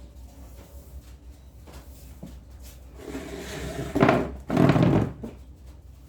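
A drawer sliding in its runners with a short rising scrape, then two loud scraping strokes about four and five seconds in.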